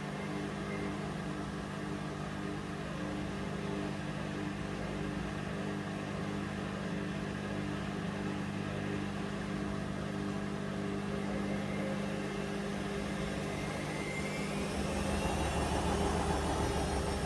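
Hoover Vision Dynamic washing machine running with a steady motor hum; about three-quarters of the way in, the motor's whine starts rising in pitch and grows louder as the drum speeds up.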